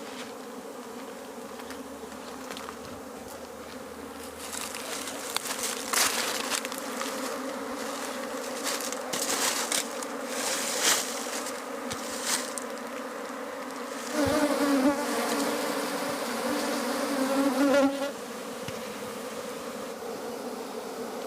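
A honeybee colony buzzing as a steady, dense hum while light smoke drives the bees out of their nest toward a hive box. From about 14 to 18 s a bee buzzes close by, louder and wavering in pitch. A few brief rustling noises fall in the middle.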